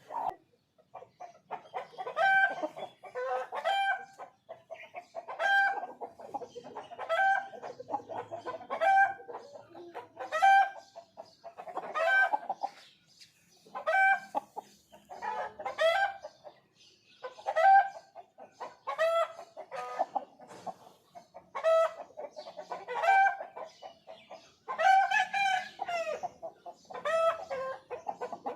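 Aseel chickens clucking: short, pitched calls repeated about every second and a half.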